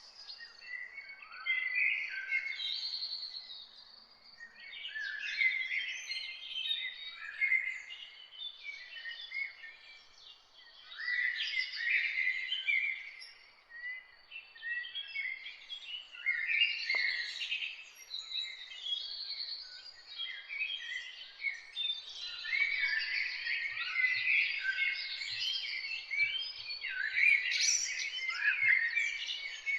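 Several songbirds singing and chirping at once, a dense overlapping chorus of high warbles and chirps that comes in waves, thinning briefly a few times and fullest in the last third.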